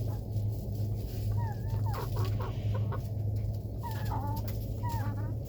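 Chickens clucking and giving short, gliding calls, one after another, over a steady low hum.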